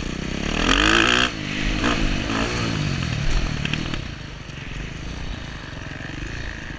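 Dirt bike engine revving hard under acceleration, climbing in pitch twice with a sudden drop between the climbs, then running lower and steadier.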